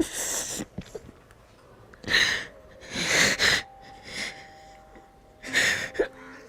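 A woman crying: four heavy, breathy sobs and sniffs, spaced irregularly a second or two apart.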